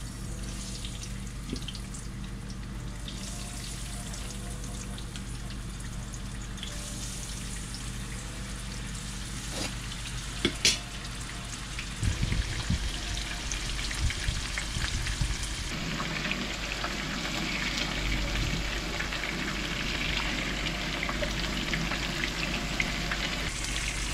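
Seasoned pompano fillets sizzling in hot oil, a steady fine crackling hiss that grows louder and denser in the second half. A sharp click comes about ten seconds in, and a few knocks follow a couple of seconds later.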